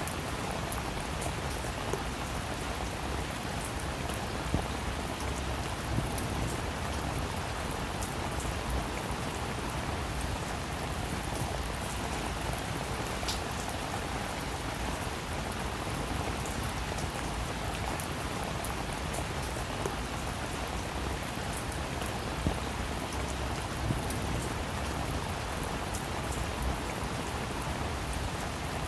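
Steady rain falling on a surface, with scattered individual drops heard as light ticks over the continuous patter.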